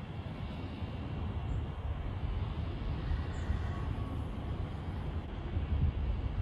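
A low, steady outdoor rumble with no speech, growing a little louder near the end.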